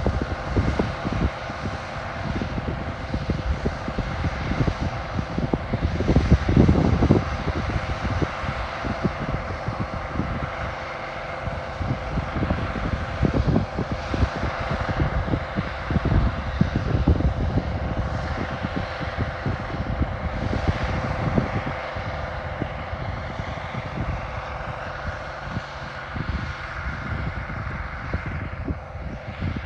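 International Harvester 1470 hillside combine running steadily while harvesting wheat: a continuous engine and threshing-machinery drone with steady whining tones. Irregular low rumbling runs under it and is loudest about six seconds in.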